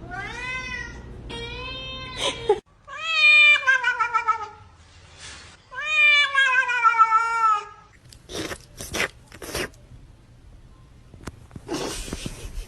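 Domestic cat meowing in a string of four long, drawn-out calls that bend up and down in pitch, like grumbling. These are followed by a few short, breathy noises.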